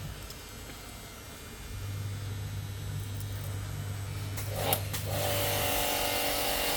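Electric car-wash pump's motor humming steadily, then spraying foam onto the car with a loud, even hiss and a whine from the pump from about five seconds in.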